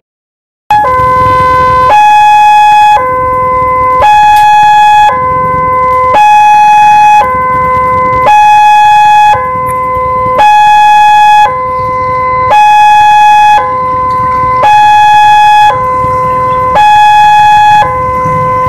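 Two-tone emergency siren alternating between a high and a low note, each held about a second, starting after a moment of silence.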